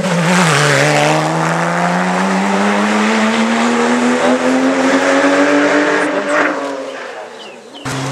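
Porsche Cayman rally car's flat-six engine accelerating hard out of a corner, its pitch rising steadily through one long pull as the car drives away. It fades over the last couple of seconds, then cuts off suddenly near the end.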